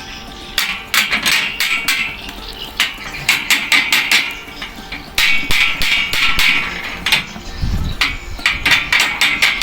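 Hammer blows struck in quick runs of several strikes with short pauses between, each blow ringing sharply.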